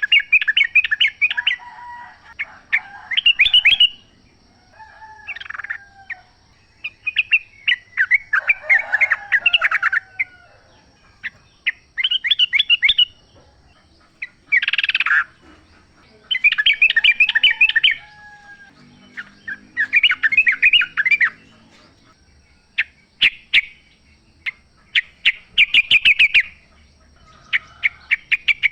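Yellow-vented bulbul (trucukan) singing in the wild: short bursts of rapid, chattering notes repeated every couple of seconds, over a faint steady high tone.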